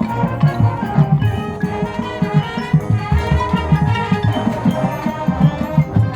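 High school marching band playing, brass holding chords over a quick, busy pattern of drum hits.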